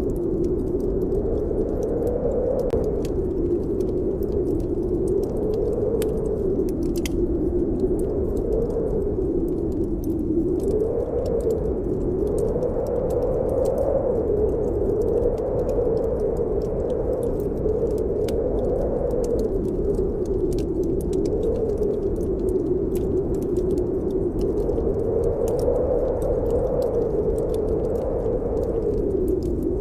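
Snowstorm wind howling in a low, steady rush that swells and dips every few seconds, over the scattered pops and crackles of a wood fire burning in a fireplace.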